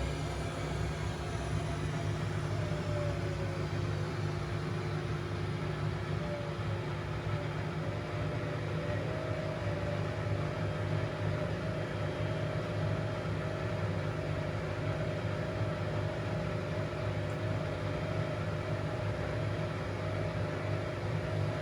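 Vox/Vestel washing machine motor running, with a steady low hum and a whine that falls in pitch over the first few seconds, then holds steady with a regular wobble. The owner takes the sound for a failing motor.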